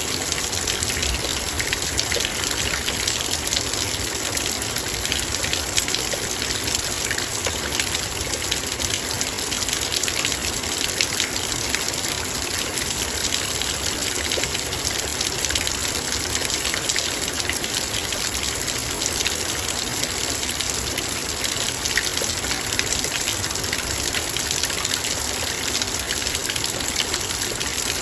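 Heavy rain falling steadily on a metal bowl: a dense, even hiss of rain with many small sharp drop ticks on the metal.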